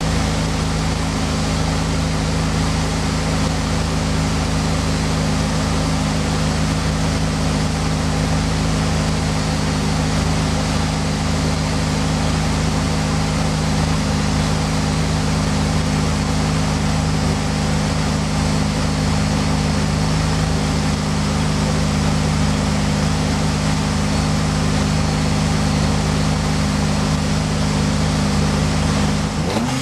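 Tuned Alfa Romeo Twin Spark 2.0 16V racing engine, about 247 hp, running at a steady, unchanging speed; its pitch starts to shift just at the end as it begins to rev.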